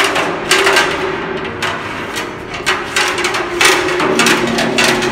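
Rosé being stirred on its lees in a wine barrel with a bâtonnage stirring rod: irregular noisy strokes, about two a second.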